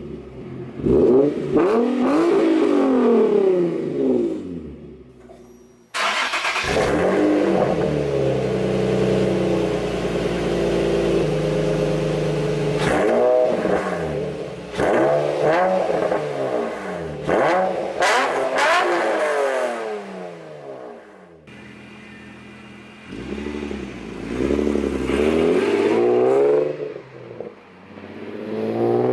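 Nissan VQ-series V6 with an aftermarket exhaust, revved again and again, the pitch climbing and dropping. Two abrupt cuts between clips; between the first and second of these cuts a steadier, louder stretch of several seconds.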